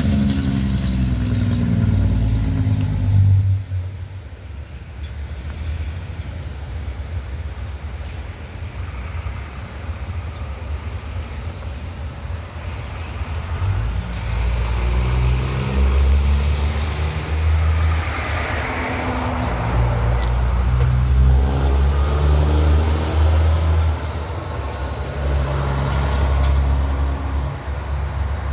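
Diesel engines of heavy trucks passing by. One goes past in the first few seconds, then a louder one from about halfway on, its engine note rising and falling.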